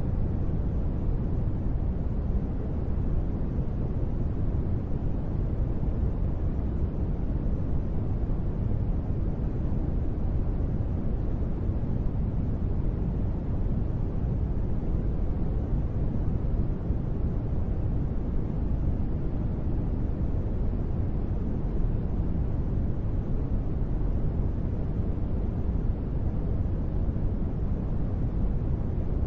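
Steady, deep noise for sleep, sold as gentle rain, with its weight in the low range and no separate drops or other sounds standing out.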